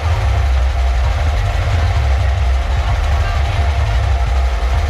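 Very loud, deep bass from a miniature sound system under test, a steady low rumble with faint crowd noise in the background.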